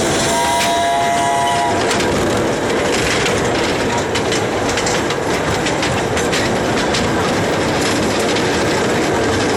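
A train running along the track with a steady rumble and the clickety-clack of wheels over rail joints. A short chord-like horn note sounds about half a second in and lasts just over a second.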